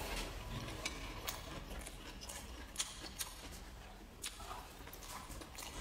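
Close-up eating sounds: someone chewing a mouthful of food, with about five short, sharp clicks scattered through.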